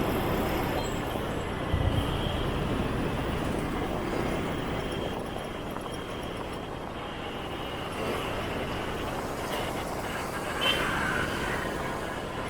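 Dense motorbike and scooter street traffic heard from a moving motorbike: a steady mix of engines and road noise. There is a brief low bump about two seconds in and a short higher-pitched sound near the end.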